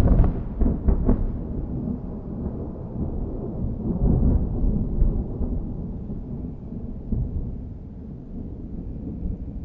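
Thunder: a deep, loud rumble with a few sharp cracks in the first second, swelling again about four seconds in and then slowly dying away.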